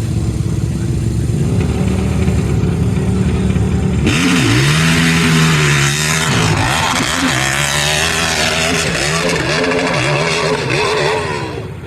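Hybrid Yamaha YFZ450 quad's KTM RC8 V-twin engine running at a steady low note, then about four seconds in opening up hard for a hillclimb run. Its pitch rises and falls again and again as it revs through the gears, easing off near the end.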